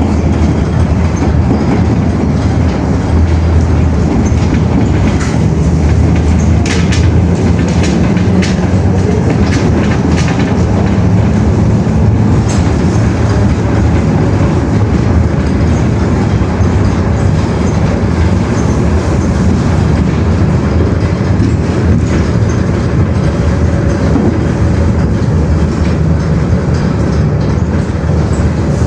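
Loud, steady rumbling noise with a few sharp clicks in the first half.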